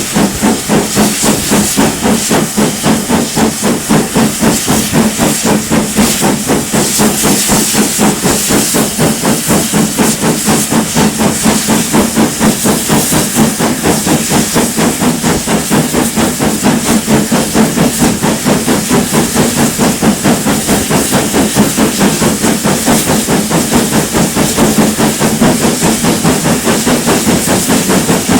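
GWR Manor class two-cylinder 4-6-0 steam locomotive working hard, its exhaust beating sharply and steadily at about five beats a second over a continuous hiss of steam.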